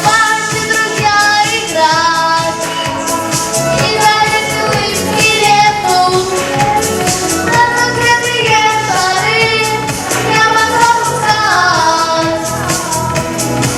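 A boy singing a children's song over backing music with a steady beat.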